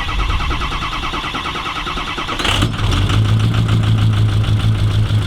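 A vehicle engine cranking on its starter with a rapid, even rhythm, catching about two and a half seconds in and settling into a steady idle.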